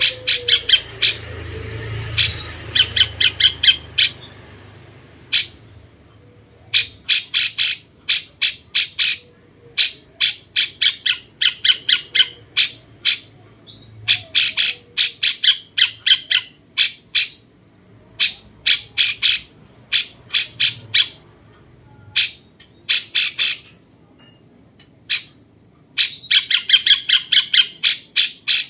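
Cucak cungkok calling in phrases of rapid, sharp repeated notes, each run lasting a second or two with short pauses between, a jenggot-like 'tembakan' style used as a tutor song for contest songbirds. A faint steady high whine runs underneath.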